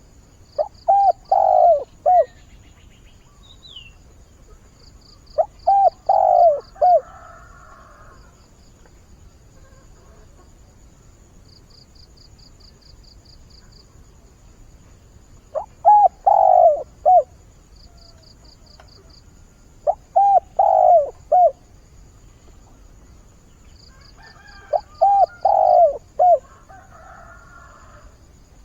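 Decoy spotted dove cooing: five phrases of three or four notes each, several seconds apart, the decoy's call used to lure wild doves. Faint short trills repeat in the background between phrases.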